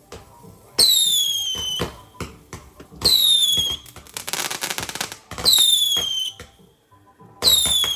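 Fireworks going off: four shots about two seconds apart, each a falling whistle lasting about a second. A spell of crackling follows the second shot.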